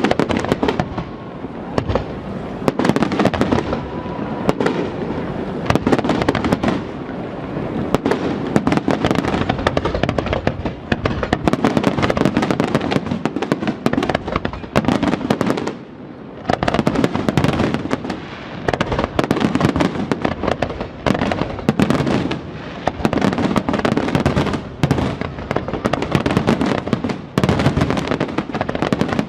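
Fireworks display: a dense, nonstop run of bangs, with a brief lull about sixteen seconds in.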